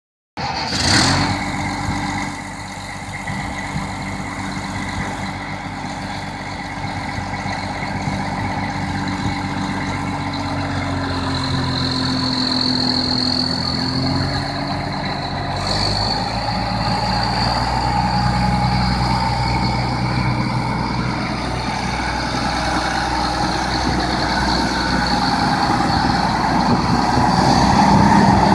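New Holland 9482 four-wheel-drive tractor's diesel engine running, with a high whine over it. The engine note shifts partway through and grows slowly louder toward the end.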